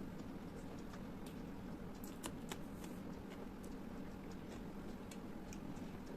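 Close-miked eating sounds: small, scattered mouth clicks from chewing, with two sharper clicks a little over two seconds in, over a steady low background hum.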